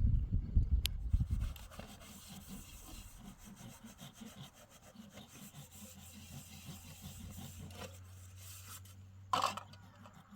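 Heavy low thumps for about the first second and a half, then faint, even scraping or rubbing strokes.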